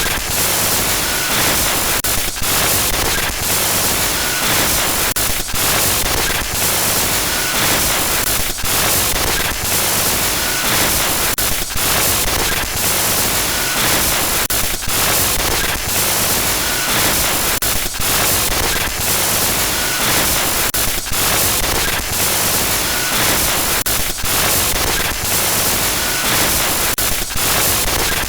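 Loud, continuous static-like glitch noise spread evenly across low and high pitches, with brief dropouts every second or so and faint short beeps now and then.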